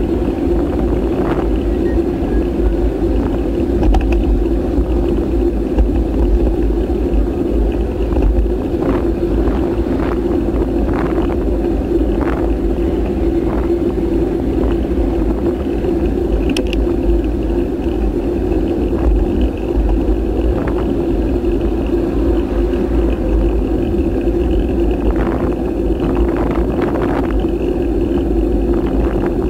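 Steady wind rumble on the microphone of a camera riding along on a bike, over a constant drone, with scattered short clicks and rattles, the sharpest about halfway through.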